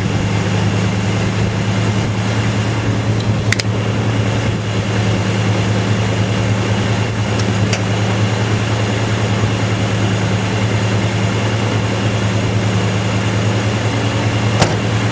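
A 1974 Dodge's engine idling steadily while still cold, with a few sharp clicks over it.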